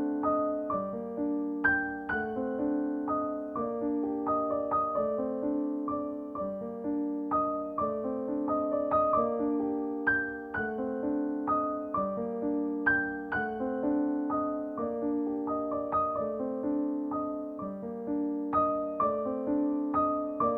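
Background piano music: a gentle melody of soft notes over repeating chords at an even pace.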